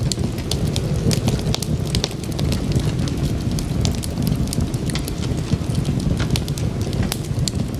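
Wood fire crackling in a fireplace: a steady low rumble of the flames with many sharp pops and snaps at irregular intervals.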